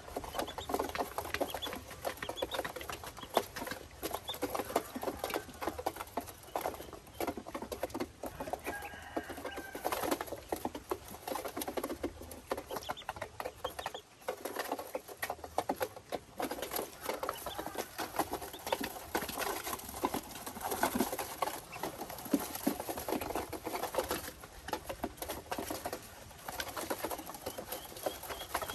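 Ducks with ducklings calling in short notes over a dense, continuous patter of small clicks from pecking and scrabbling.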